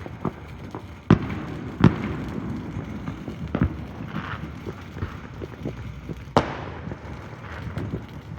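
Fireworks going off: an irregular string of sharp bangs and pops with crackling between them, the loudest bangs about a second in, near two seconds, halfway through and past six seconds.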